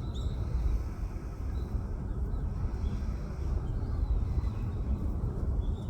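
Steady low rumble outdoors with a few faint, short high-pitched bird calls scattered through it, the first near the start.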